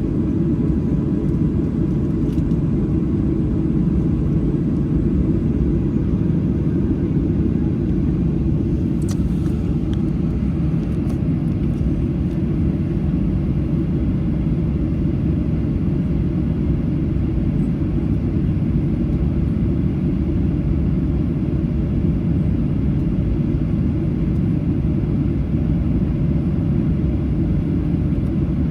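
Steady low rumble inside the cabin of a Boeing 737-800 on the ground, with a few faint clicks about nine to eleven seconds in.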